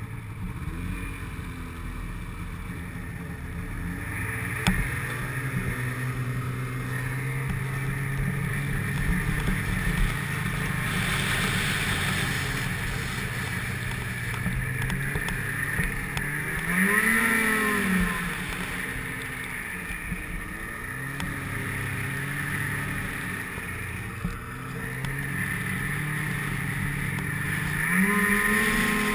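Snowmobile engine running under way, its pitch climbing and dropping about halfway through and climbing again near the end as the throttle changes.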